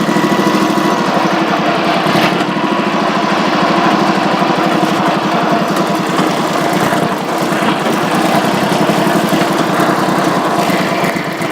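Tractor engine running steadily with an even, rapid pulse.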